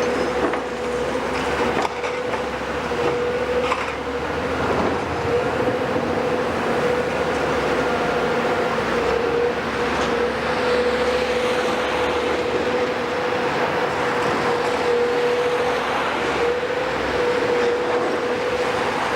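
Heavy demolition excavator at work: its engine and hydraulics run steadily under load with a constant high whine, and a few knocks of debris come in the first few seconds.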